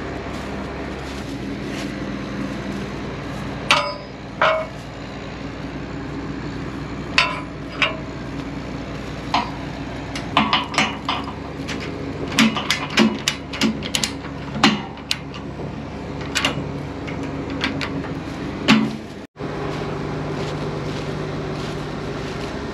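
Combine harvester running with a steady engine drone, with a series of sharp metallic clanks and knocks from about four seconds in. The sound breaks off abruptly near the end, and the drone comes back at a slightly different pitch.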